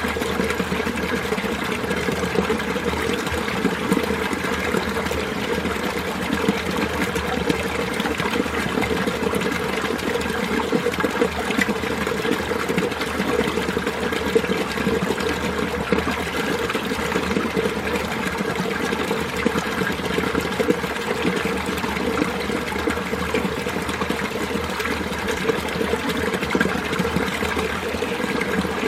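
Mountain valley stream flowing steadily, a constant even rush of running water.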